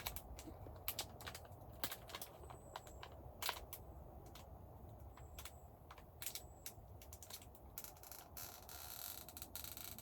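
Faint, irregular clicks and crackles with a longer rustle near the end, and a few brief, very high chirps.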